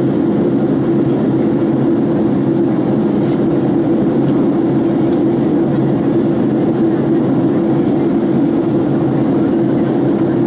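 Steady low drone of engine and airflow noise inside the cabin of a Boeing 767-336(ER) airliner in flight, heard from a window seat by the wing.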